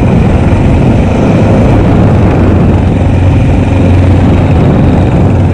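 Honda XR650L's single-cylinder four-stroke engine running at a steady pitch.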